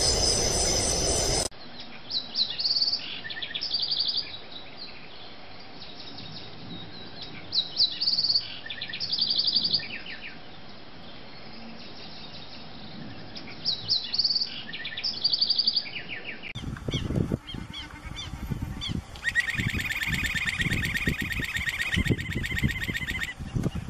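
Songbird singing: short phrases of high, quick chirping notes every second or two. About two-thirds of the way through, a different recording begins, with low thumping and a fast, high, rapid trill lasting a few seconds.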